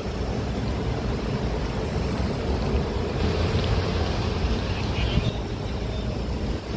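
City street ambience: a steady low rumble of passing traffic with wind buffeting the microphone.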